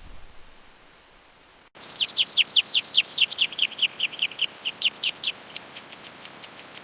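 A songbird singing a fast trill of short notes, each sweeping down in pitch, about seven a second. It starts about two seconds in, then thins out and fades.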